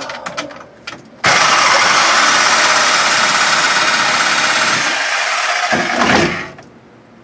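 Large power saw cutting through the car's sheet metal. It starts abruptly about a second in, runs steadily for about five seconds, then stops and winds down.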